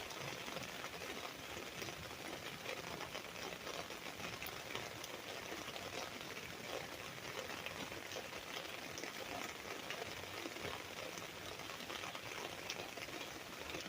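Rain falling steadily on an umbrella: a dense, even stream of small drop hits with no let-up.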